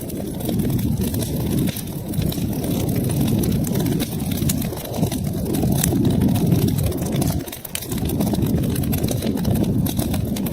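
Wood fire burning in a fireplace: a steady low rumble of flames with frequent small crackles and pops, easing briefly about seven and a half seconds in.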